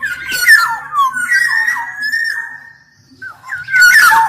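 Black-naped oriole (kepodang) singing: fluty whistled notes that slide downward, mixed with harsh, raspy notes, in one long phrase, a short pause, then another loud burst near the end.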